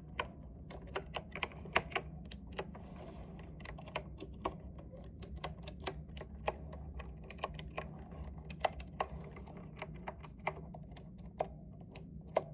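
Keys of a compact, tenkeyless mechanical keyboard being typed on, an uneven run of sharp clicks several a second. The keystrokes sound a bit hollow and echoey inside the case.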